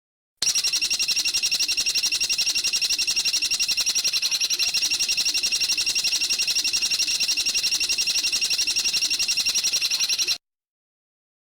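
A bird's fast, even trill of high notes, about fifteen a second, held for about ten seconds, then cutting off abruptly.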